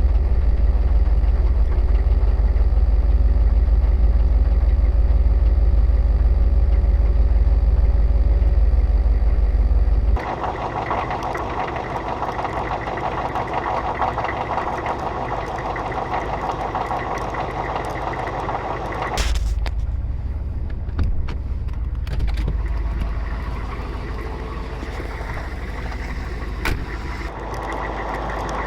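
Oldsmobile 350 diesel V8 running at idle after a cold start. Its sound changes abruptly about ten and nineteen seconds in, and there is a heavy low rumble through the first ten seconds.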